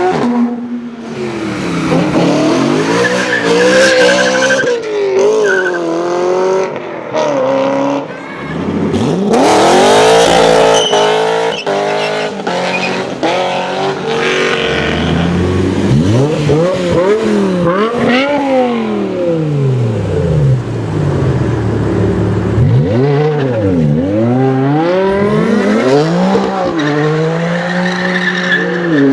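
High-performance car engines revving and accelerating, their pitch climbing and falling again and again. A louder, noisier stretch comes about ten seconds in.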